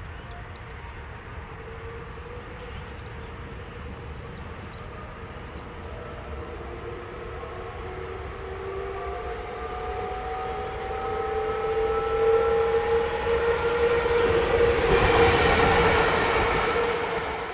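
Train running and coming closer, growing steadily louder, with a low rumble and several whining tones that slowly rise in pitch over its run.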